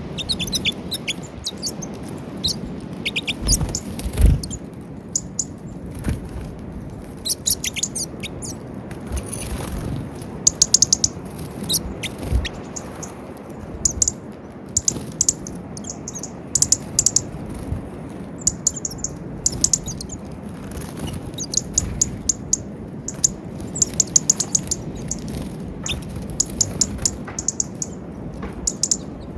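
Small wild birds calling with many short, high chirps in quick runs throughout, over a steady low background, with a couple of low thumps about 4 and 12 seconds in.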